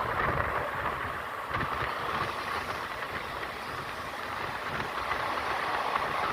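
Moving passenger train: a steady rushing rumble of the running coach.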